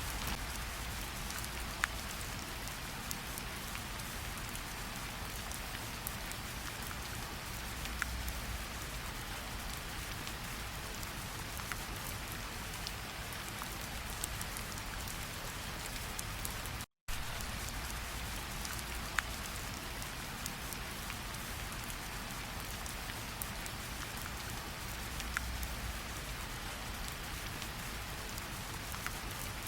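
Steady rainfall, an even hiss with scattered louder single drop hits. About halfway through, the sound cuts out completely for a split second, then resumes unchanged.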